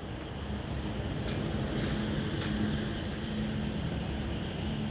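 Steady low rumble and hum of a train running on the line, a little louder from about a second in, with a few faint ticks.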